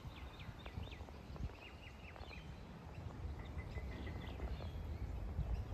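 Birds chirping in quick runs of short, high, downward-sliding notes, over a steady low rumble.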